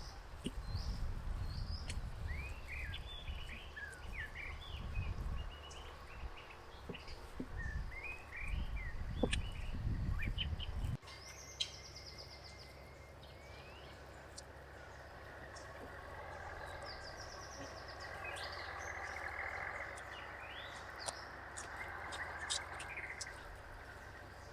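Small birds chirping and calling in short, repeated phrases over outdoor background noise. A low rumble underneath stops abruptly about eleven seconds in.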